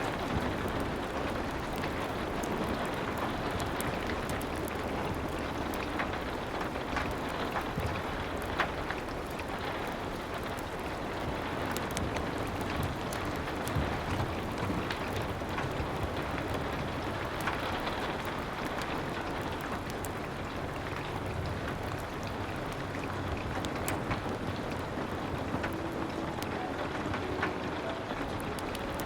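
Steady rain falling on a window and roof, with the scattered sharp pops and crackles of a wood fire burning in a fireplace.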